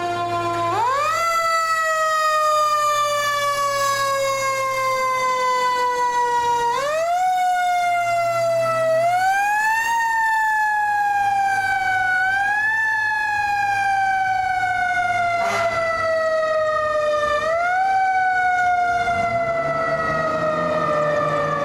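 Fire truck's mechanical siren, wound up about five times. Each time the pitch jumps up quickly and then slowly coasts down before the next wind-up. A low engine rumble and a faint steady tone run underneath.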